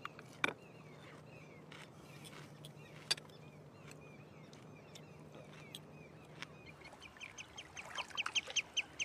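Birds calling outdoors: faint chirping with a few sharp clinks of cutlery on dishes. From about seven seconds in comes a fast run of short, sharp calls, several a second, growing louder.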